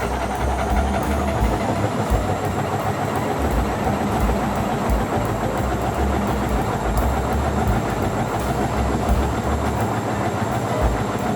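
Washing machine running, its drum tumbling with a steady rumble and rattle and irregular low thumps.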